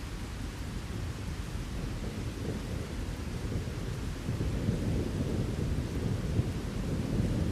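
Rolling thunder over steady rain: a deep rumble that builds about halfway through and stays heavy to the end, with the hiss of rainfall underneath.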